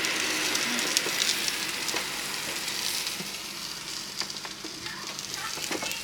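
Beef ribs sizzling on the oiled grill pan of a Ninja air fryer, an even hiss with scattered small pops that slowly grows a little quieter.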